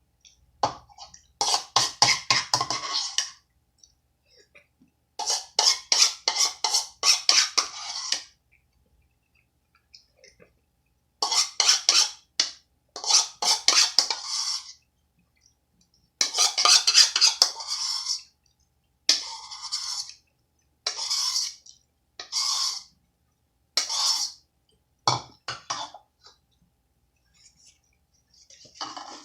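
Close-up chewing of crunchy Coco Crunch chocolate cereal: repeated bouts of rapid crunching, each a second or two long, with short pauses between.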